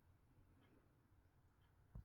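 Near silence: room tone with a faint low hum and a small click near the end.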